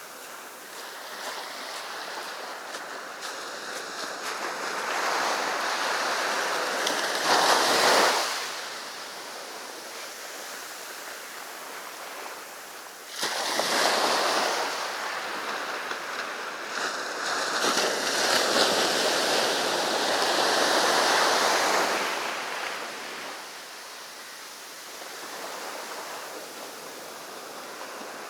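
Ocean waves breaking and washing up the beach in a steady surf, swelling and falling back as each wave comes in, with the loudest surges about seven seconds in and again about thirteen seconds in.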